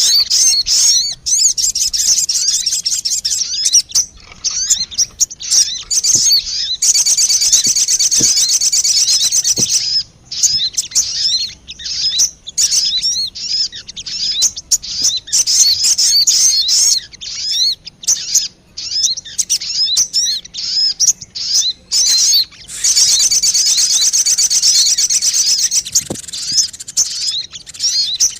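Sogon bird calls played as a trapping lure: rapid, high-pitched chirps and twittering, broken by two long fast trills, one about 7 seconds in and one from about 23 seconds to near the end.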